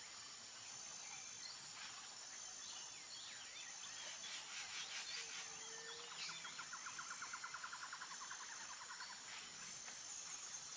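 Nature ambience: insects trilling steadily in a high pitch, in repeated stretches, with a few bird chirps and a fast pulsing trill in the second half.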